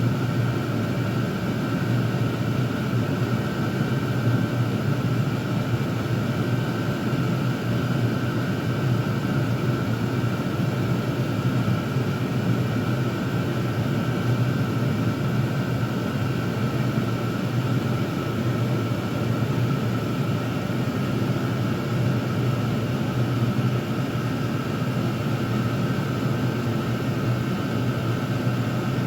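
Several Chinese diesel air heaters running together on their maximum setting: a steady rush of blower fans and burners over a low hum, with a faint steady whine.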